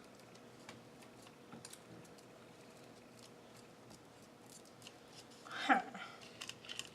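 Quiet handling of ribbon and craft supplies on a table: faint scattered clicks and taps, then a brief louder sliding squeak that falls in pitch nearly six seconds in.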